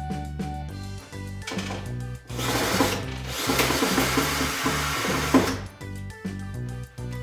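A power drill runs in two spurts, the longer one about three seconds, over background music with a steady bass line.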